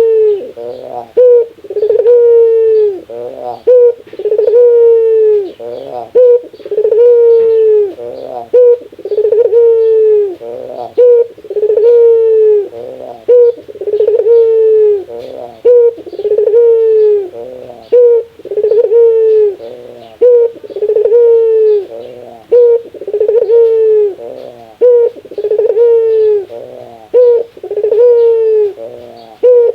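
Barbary dove (burung puter) giving its 'laughing' call: a short sharp note followed by a longer falling coo, repeated steadily about once every second and a half.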